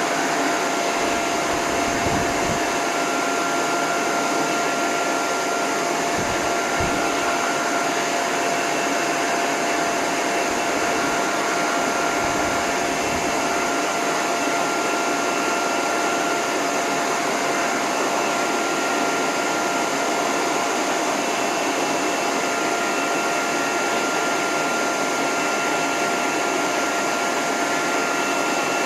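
Dog-grooming hose dryer (high-velocity blower) running steadily on a low setting with its end nozzle off: a constant rush of air with a steady whine. It changes briefly a few times in the first half, about two, six and twelve seconds in.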